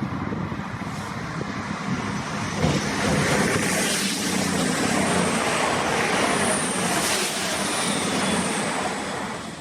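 A train passing by: a rush of noise that swells about three seconds in, stays loud, then drops away near the end, with a faint high whine in the middle.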